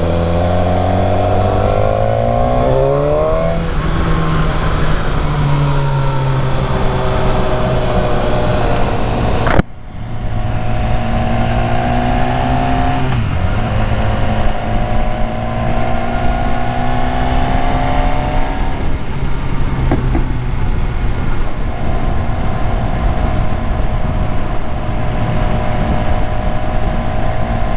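BMW S1000R inline-four motorcycle engine under way, pulling up through the gears: its pitch rises and then steps down at each shift, then holds fairly steady near the end, over steady wind noise. Briefly cut off about ten seconds in.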